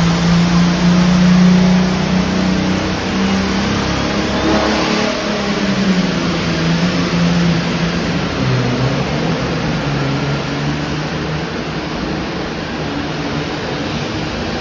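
A turbocharged diesel Super Farm pulling tractor runs hard at full load, dragging the weight-transfer sled down the track. Its engine note sags lower about halfway through as it lugs down under the growing load.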